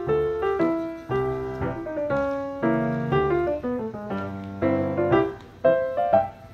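Solo piano music playing: a melody over chords, its notes struck sharply and dying away.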